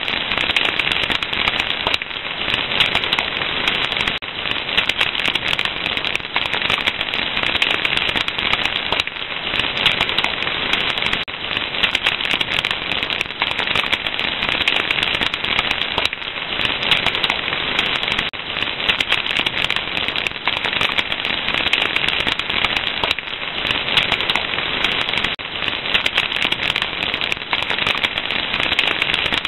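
Wood fire crackling: a dense, steady stream of small pops and snaps.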